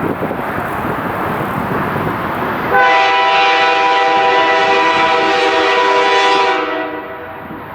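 Freight locomotive running past with a rumbling rail noise, then about three seconds in it sounds one long blast of its multi-chime Canadian horn, held steady for about four seconds before cutting off.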